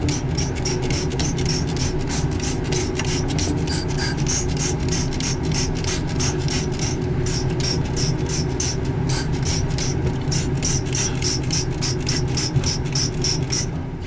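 Brush scrubbing a dirty refrigeration condenser coil in quick, even strokes, about three to four a second, over a steady motor hum.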